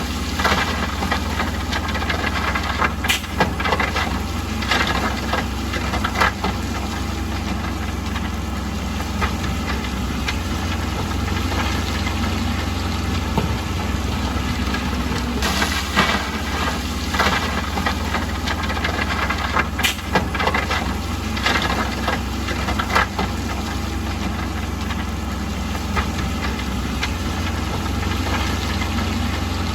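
Heavy construction machine's diesel engine running steadily, with a handful of sharp knocks and clanks over the top.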